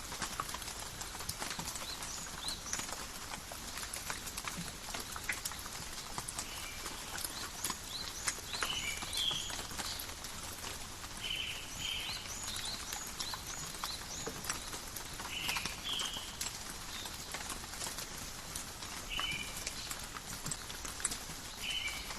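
Steady rain falling through forest foliage: an even hiss of patter with many separate drips and taps. Short, high chirps come in several times.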